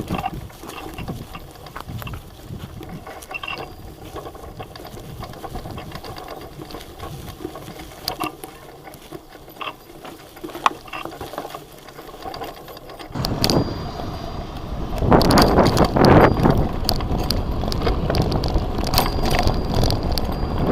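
Bicycle being ridden over a rough track, with scattered clicks and rattles from the bike. About two-thirds of the way in, loud wind buffeting on the microphone sets in.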